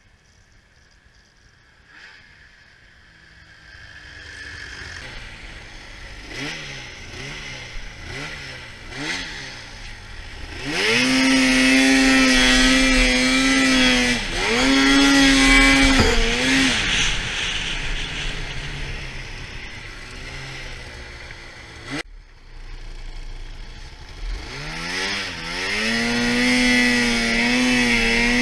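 2013 Arctic Cat F800 RR snowmobile's two-stroke twin engine: a few quick throttle blips, then held at high revs with a steady pitch, dropping briefly once and picking up again, before easing off and building up once more near the end.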